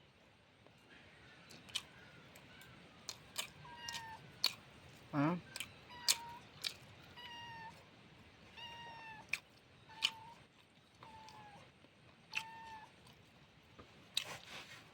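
A cat meowing over and over in short, evenly pitched calls, about eight of them, with sharp clicks in between.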